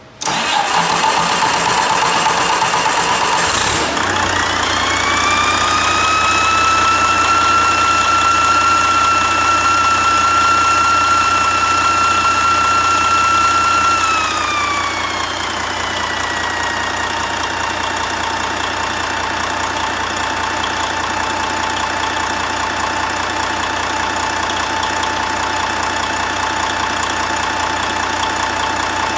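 2009 Detroit DD15 inline-six diesel engine being cranked over by the starter for about four seconds, then catching and running. It settles at a raised speed with a high whine, and about ten seconds later drops back to a steady idle.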